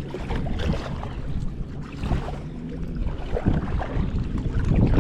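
A canoe moving through water, with wind rumbling on the microphone.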